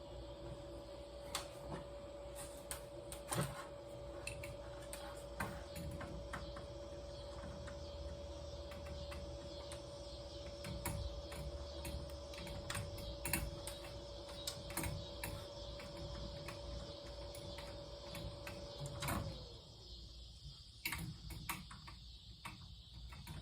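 Scattered light clicks and knocks of parts being handled, over a steady hum and whine that drops in pitch and stops about nineteen seconds in.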